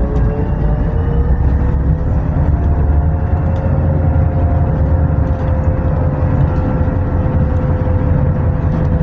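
Tram running: a steady low rumble with a faint electric motor whine that rises slightly over the first few seconds, then holds.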